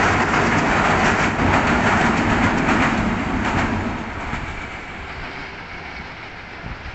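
Passenger train coaches rolling over a steel girder bridge, the wheels clattering over the rail joints. The noise fades from about four seconds in as the last coach moves away.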